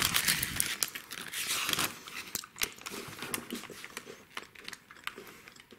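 Crunching bite and chewing of a crisp cookies-and-cream Pocky biscuit stick: a loud burst of crunching for the first two seconds, then irregular smaller crackles as it is chewed.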